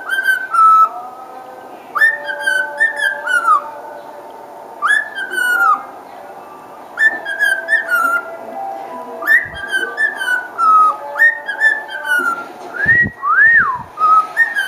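Pet cockatiel whistling a tune in short repeated phrases, each a run of sliding notes that mostly fall in pitch, coming about every two seconds.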